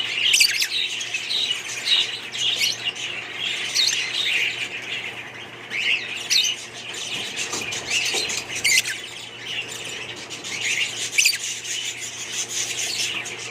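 Budgerigars chirping and squawking, many short calls overlapping without a break, over a faint steady low hum.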